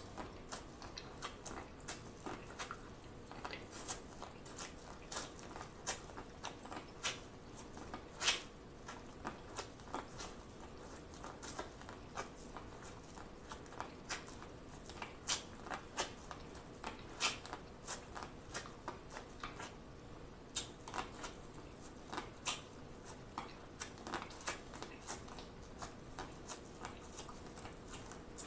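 Close-miked biting and chewing of boiled corn on the cob: irregular crisp clicks and crunches as the kernels are bitten off and chewed, over a faint steady hum.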